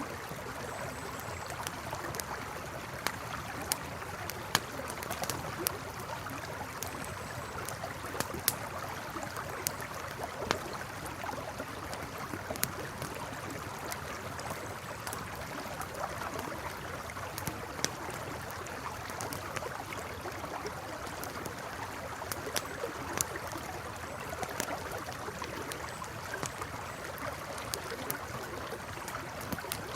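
A river flowing steadily, with the frequent sharp crackles and pops of a campfire burning close by.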